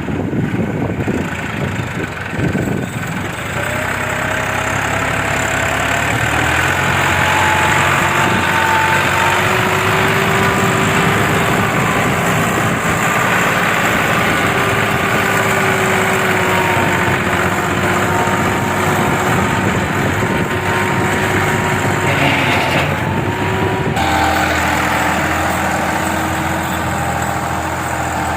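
Massey Ferguson 260 tractor's diesel engine running steadily, its pitch climbing a few seconds in and dropping a little near the end.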